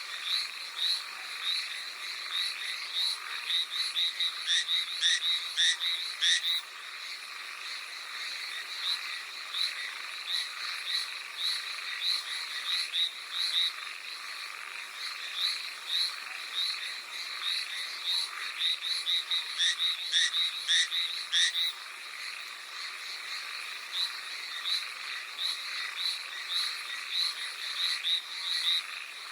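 Hallowell's tree frogs calling: a steady run of short, high notes, several a second, that keeps on throughout. Calling grows louder and busier twice, about four seconds in and again about twenty seconds in.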